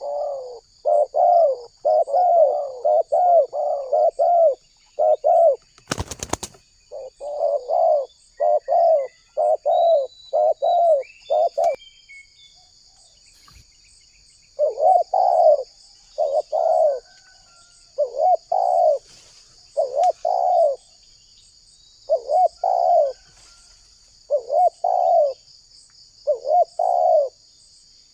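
Spotted dove cooing over and over in quick series of short, hoarse coo notes, with a pause of about two seconds partway through. A faint steady high insect trill runs underneath, and a short knock sounds once, about six seconds in.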